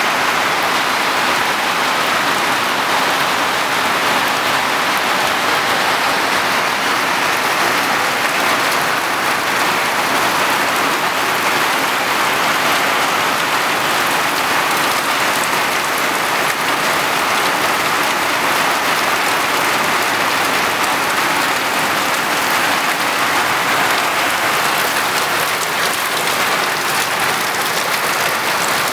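Heavy summer rain, a steady downpour pattering on surfaces without a break.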